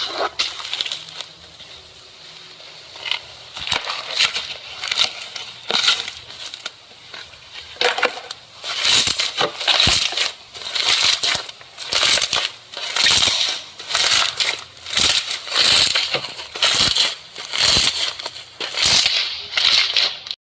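Crunchy slime squeezed and pressed by hand, crackling with crunches. Light and irregular at first, then from about nine seconds in a steady run of loud crunches about once a second.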